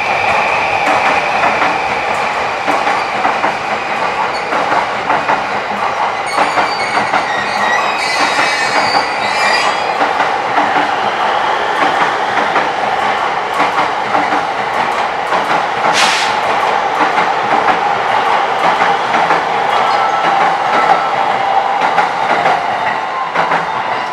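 JR commuter electric train moving along the station track, its wheels clattering over the rail joints under a steady whine, with some high wheel squeal about a third of the way in and one sharp click about two-thirds in.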